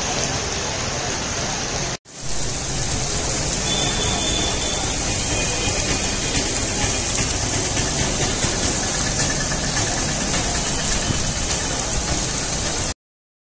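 Torrential rain falling on a town street, a steady, even hiss. It drops out for a moment about two seconds in and cuts off abruptly near the end.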